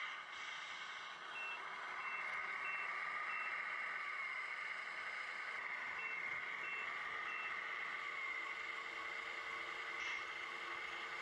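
The RC semi's Tamiya MFC-01 sound unit plays simulated truck engine noise through its small onboard speaker, with electronic reversing beeps as the truck backs up. There are four short beeps about a second and a half in, then three more around six seconds.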